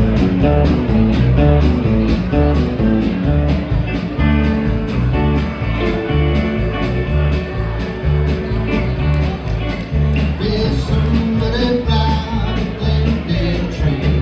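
Live country-rock band playing an instrumental passage without vocals: bass and drums keeping a steady beat under electric guitar.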